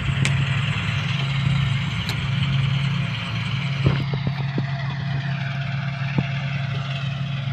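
Kubota tractor's diesel engine running steadily under load while tilling sticky mud in a paddy short of water, with a few short knocks around the middle.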